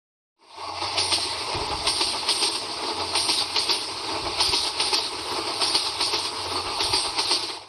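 A passing train: wheels clattering over rail joints in a steady clickety-clack, with a low engine drone beneath. It fades in about half a second in and cuts off abruptly at the end.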